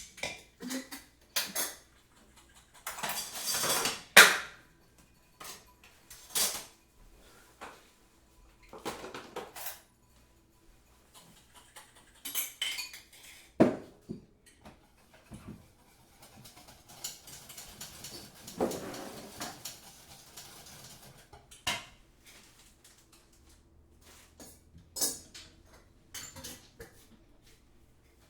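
Crockery and cutlery clinking and clattering in a kitchen, in scattered knocks and taps with a few longer rustling, scraping stretches in between.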